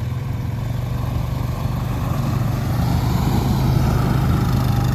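ATV engine running steadily under throttle, growing a little louder as it goes.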